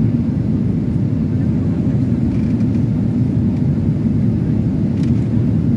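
Boeing 737-800 cabin noise: a steady low rumble from the jet engines and airflow, heard from inside the cabin.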